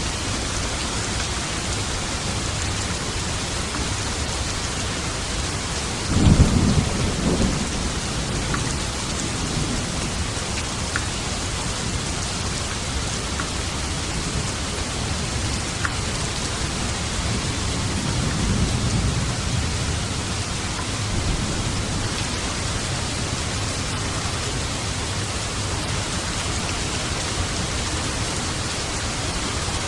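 Steady heavy rain falling, with a sudden low thunderclap about six seconds in that rumbles for a couple of seconds, and a softer roll of thunder later on.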